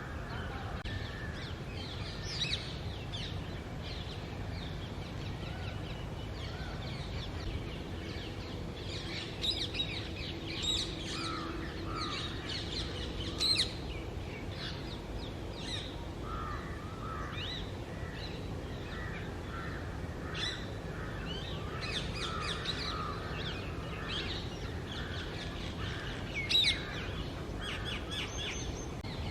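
Rose-ringed parakeets calling at the nest: clusters of short, high-pitched screeches, with lower calls in between, over a steady low background noise.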